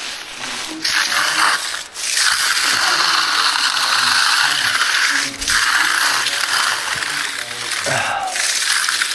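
Steel hand trowel scraping across a fresh concrete slab during finishing, in long sweeping strokes of two to three seconds with short breaks between them.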